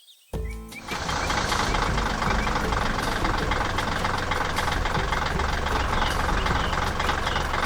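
Heavy diesel machinery engine running steadily, coming in about a second in after a brief silence.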